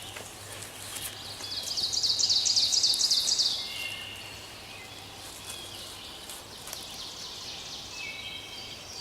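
A songbird singing a fast, high trill for about two seconds, beginning about a second and a half in. Fainter bird calls follow against a steady woodland background.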